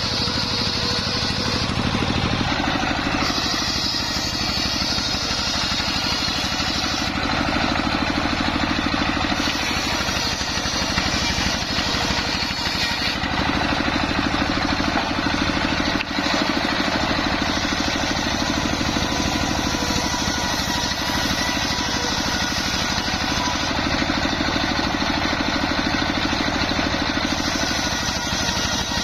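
Homemade engine-driven circular sawmill running steadily while sawing waru wood into battens. The saw's tone shifts every few seconds as the blade goes in and out of the cut.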